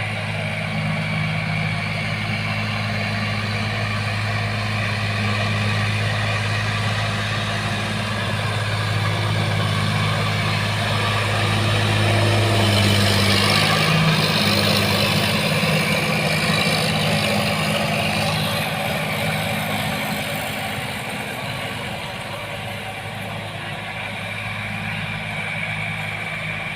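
Sonalika DI 50 RX tractor's diesel engine running steadily with a low drone. It grows louder and harsher from about a dozen seconds in, then eases back to a steady run.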